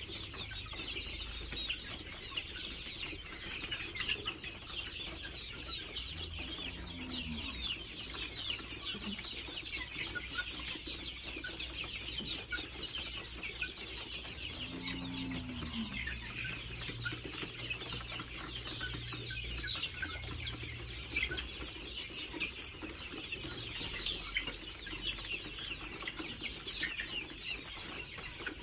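A flock of poultry-farm chickens calling continuously: many overlapping high cheeps and clucks, with an occasional lower call.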